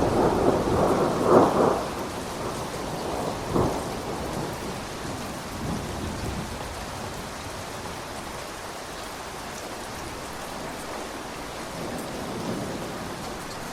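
Steady rain with a roll of thunder in the first two seconds and a shorter thunderclap a little after three seconds in, then rain alone.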